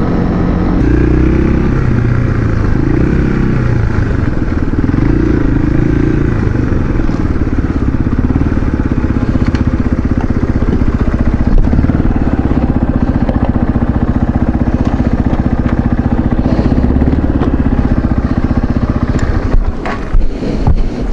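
Motorcycle engine running under way, its pitch rising and falling with the throttle over the first few seconds, then holding steady. Near the end the engine drops back and wind buffets the microphone in sharp gusts.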